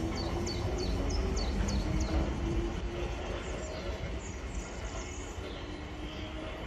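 South Western Railway Class 455 electric multiple unit running away down the line, the rumble of its wheels on the rails slowly fading as it recedes.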